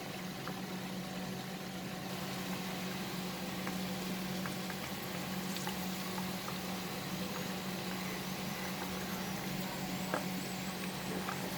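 Hot oil sizzling steadily around coated chicken pieces deep-frying in a karhai, with scattered small pops and crackles, over a steady low hum.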